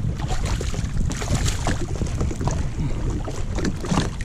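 Wind buffeting the microphone over splashing water, with a steady low rumble and many short, irregular splashes and knocks.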